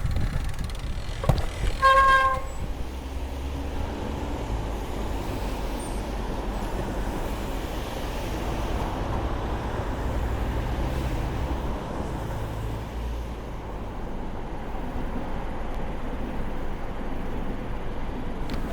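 A horn sounds briefly about two seconds in, then a steady low rumble with hiss runs on.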